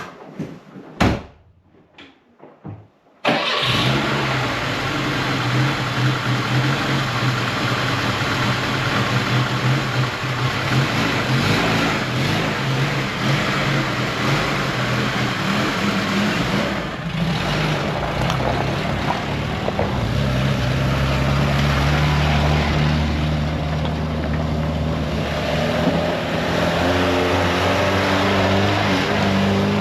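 Car engine running steadily, starting suddenly about three seconds in after a few knocks, its pitch shifting now and then.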